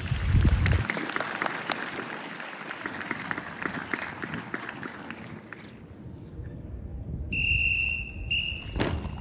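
Audience applauding, dying away over several seconds, then a high steady whistle blast held about a second, followed by a short second blast.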